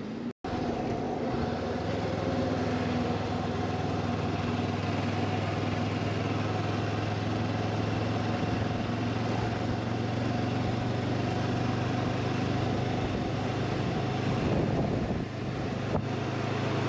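Honda CB500X parallel-twin engine running steadily while riding, with a brief drop in level about 15 seconds in.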